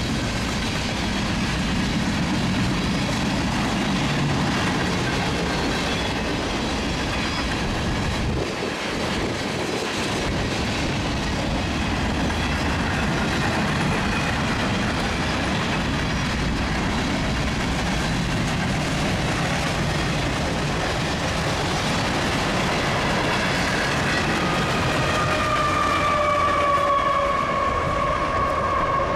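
Train rolling past, a steady rumble of wheels running on the rails. Near the end a high ringing tone comes in and slowly falls in pitch.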